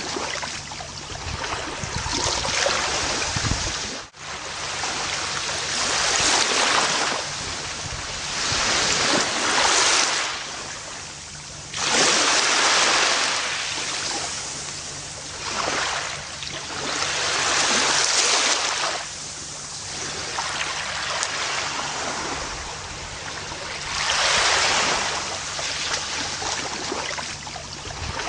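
Gentle ocean waves breaking and washing up a beach, the surf swelling and fading every few seconds. The sound drops out briefly about four seconds in, and a louder wave comes in suddenly near twelve seconds.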